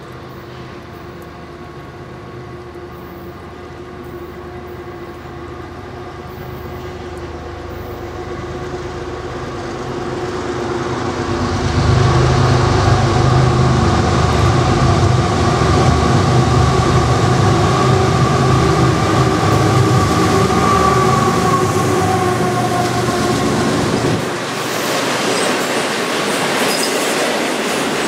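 Canadian Pacific diesel freight locomotives approach from inside a rock tunnel, their low engine drone building steadily until it is loud. Near the end the drone drops away as the locomotives pass, and the rolling rumble of double-stack container cars on steel rails takes over, with some high wheel squeal.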